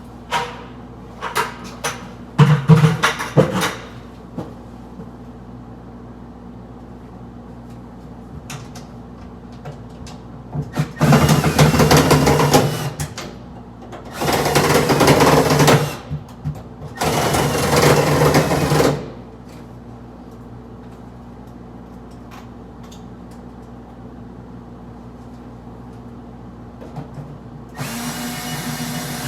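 Power drill running in three bursts of about two seconds each, partway through, and starting again near the end. A few knocks and clatters come in the first few seconds.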